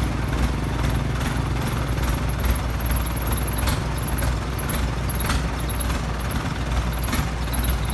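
Excavator's diesel engine running steadily with a low rumble, with irregular sharp knocks every second or so.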